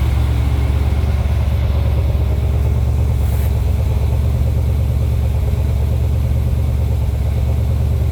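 LS V8 engine idling steadily just after a cold start at 28 °F, running a little rich while it warms up.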